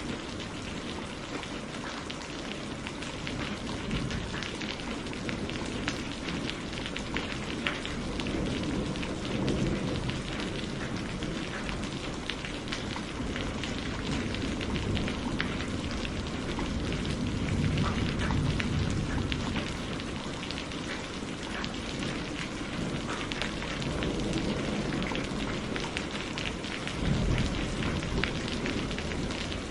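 Steady rain falling, a dense hiss of drops with many small individual drop ticks. Low rumbling swells rise a few times, about a third of the way in, midway, and near the end.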